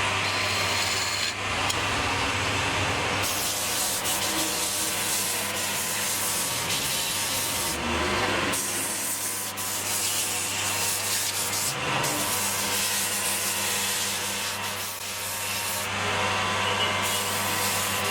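A wood lathe running with a steady motor hum while sandpaper is held against the spinning wood, giving a rough hiss that lets up briefly a few times.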